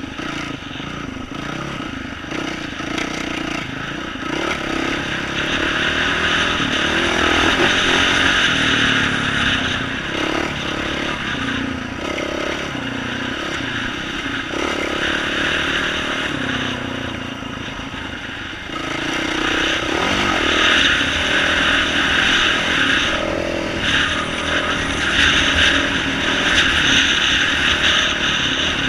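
2012 Yamaha YZ450F dirt bike's single-cylinder four-stroke engine through an aftermarket exhaust, revving up and down continuously as it is ridden over a trail. It grows louder about halfway through and stays loud to the end.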